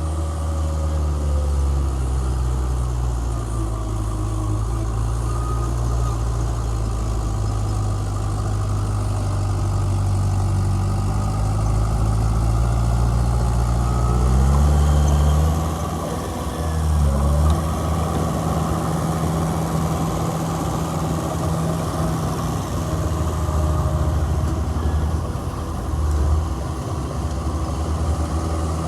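Heavy diesel engine of earthmoving machinery running steadily, briefly revving up and dropping back a little past halfway.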